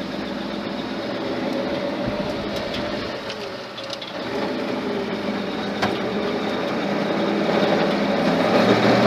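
Freshly rebuilt Ford flathead engine running steadily as the truck drives along, getting louder over the last couple of seconds.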